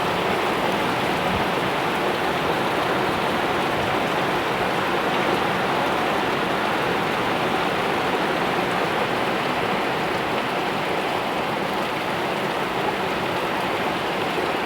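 Steady rain falling and pattering on surfaces, an even hiss without letup.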